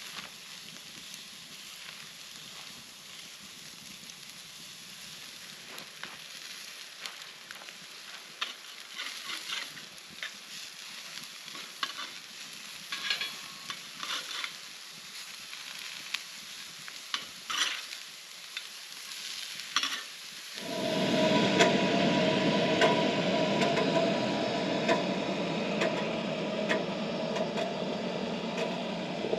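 Food frying in a pan over a campfire, with scattered crackles and pops. About two-thirds of the way through, a much louder, dense sizzle starts suddenly and keeps going.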